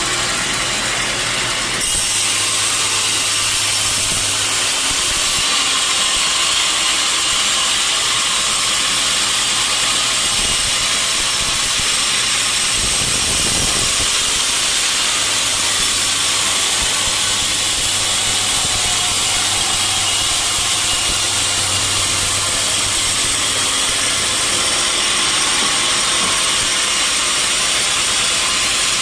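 A sawmill saw cutting lengthwise through a mahogany log, a steady high hiss of the blade in the wood that gets louder about two seconds in and then holds even.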